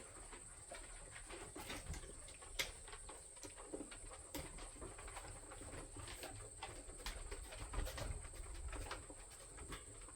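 Scattered light clicks and taps of metal smoker parts being handled and fitted while the door of a vertical smoker is mounted, with faint bird calls in the background.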